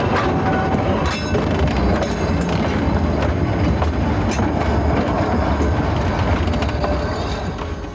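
A moving train: a steady rumble with the clatter of wheels over the rail joints and scattered sharp clicks.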